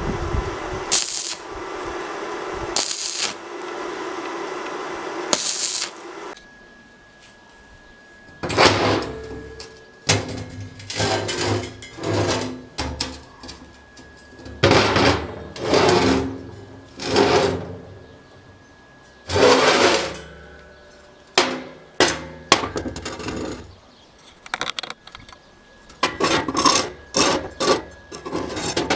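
Workshop sounds of metal stove parts and tools being worked: for the first six seconds a steady running noise broken by several loud bursts, then from about eight seconds in a series of separate metallic clanks and scrapes.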